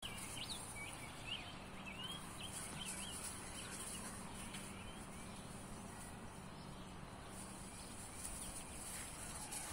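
A bird chirping in a quick series of short whistled notes that rise and fall, over the first three or four seconds. Faint outdoor background with a steady low hum.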